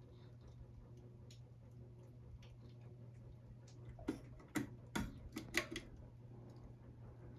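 Hampton Bay Gazebo Plus ceiling fan running with a steady low motor hum and faint ticking. A quick series of about six sharp, louder clicks comes around four to six seconds in.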